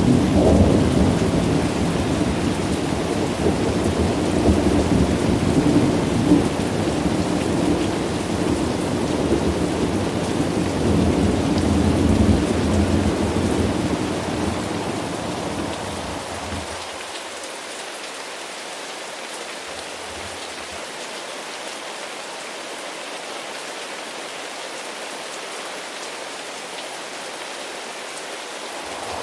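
Steady rain with rolling thunder. The low thunder rumble runs through the first half and fades out about sixteen seconds in, leaving only the even hiss of the rain.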